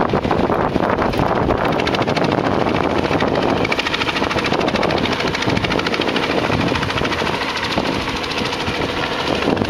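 Helicopter hovering low overhead, its rotor blades beating in a steady rapid chop over a loud engine and rotor-wash noise.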